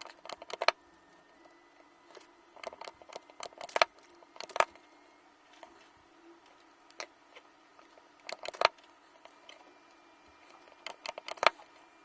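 Scattered small clicks and taps of metal battery parts and tools being handled on a workbench, in short clusters, over a faint steady hum.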